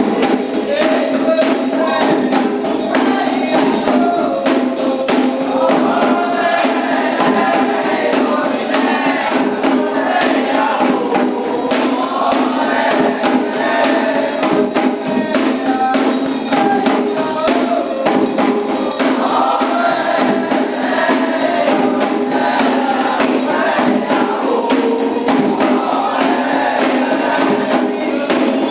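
Candomblé ritual music: a group singing a chant for the orixás over dense, steady hand percussion with a shaken or struck jingle-like sound.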